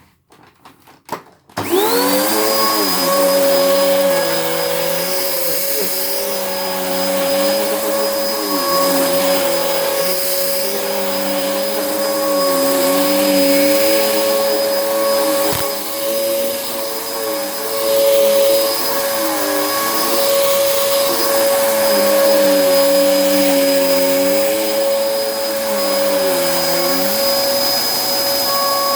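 A few clicks, then the motor of a Swan Petmaster 1600-watt vacuum cleaner is switched on about two seconds in. It spins up and runs steadily with a high whine, while its lower hum wavers up and down. The motor is running normally now that its choked filter has been cleaned out.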